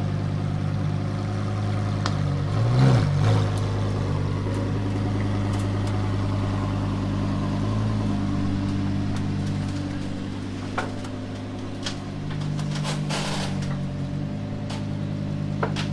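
Lamborghini Huracán STO's naturally aspirated V10 idling and creeping at low revs as the car is driven up into an enclosed transporter, with a brief rise in revs about three seconds in. A few sharp clicks and knocks come in the second half.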